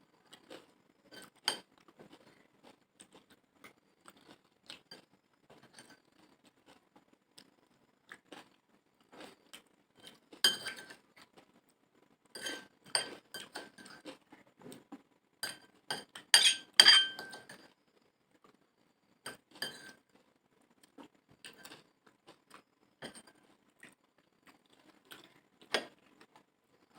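Spoon clinking and scraping against a plate of chotpoti, in irregular short ringing taps. The taps come thickest and loudest in the middle, then thin out.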